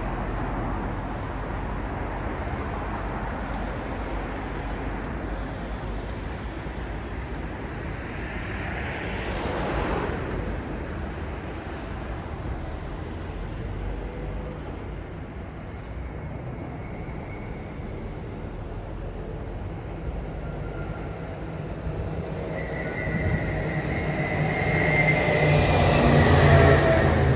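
City traffic noise: a steady hum of passing vehicles, with one vehicle swelling past about ten seconds in. Near the end a heavy vehicle comes close with a deep rumble and a high squealing whine.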